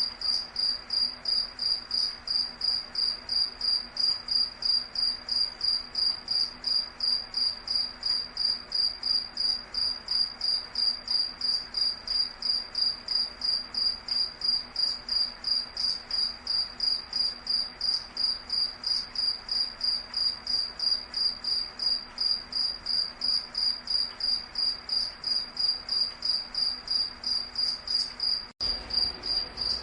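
A cricket-like insect chirping in an even, steady rhythm of about three high-pitched pulses a second, which breaks off for an instant near the end.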